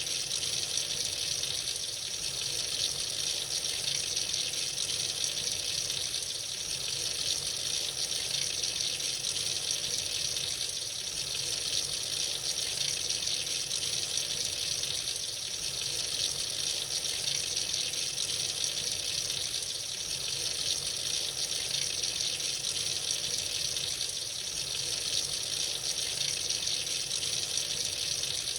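Tap running freely into a sink, a steady unbroken stream of water.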